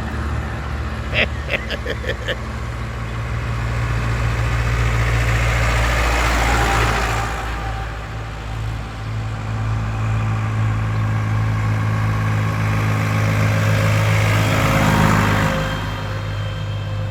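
Tractor engines running steadily as tractors in a procession go past, two of them passing close about six and fourteen seconds in. A quick run of five or six short beeps comes about a second in.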